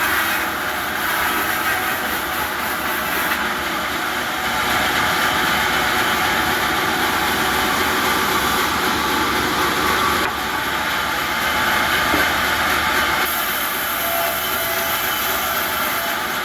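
Sawmill machinery running steadily, a loud continuous mechanical noise as timber is processed into boards.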